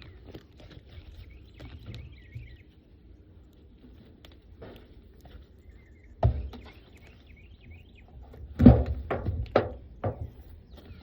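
Wooden beehive boxes and cover being set in place: one thunk about six seconds in, then a cluster of louder knocks a couple of seconds later. Faint bird chirps in the first three seconds.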